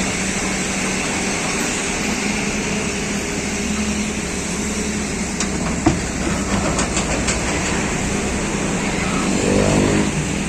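XCMG 210C excavator's diesel engine running steadily, with a single sharp knock about six seconds in. The engine note rises and grows louder briefly near the end.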